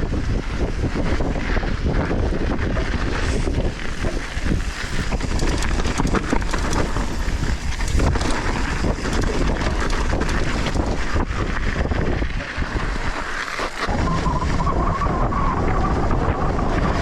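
Wind rushing over a GoPro microphone on a fast downhill mountain-bike run, with constant rattling and knocking from the bike over rough trail. A steady squeal comes in a few seconds before the end.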